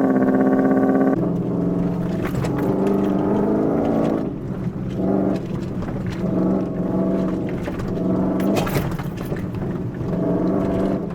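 Vehicle engine running: a steady high-pitched note that cuts off about a second in, then a lower engine note rising and falling with the throttle.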